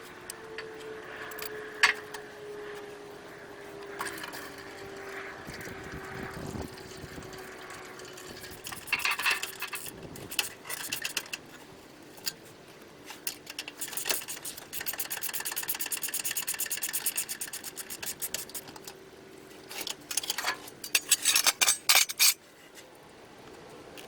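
Hand tools working on a car's engine bay: bursts of rapid metallic clicking and scraping, densest in the middle and loudest near the end, with a couple of sharp knocks early on. A faint steady hum slowly falls in pitch underneath.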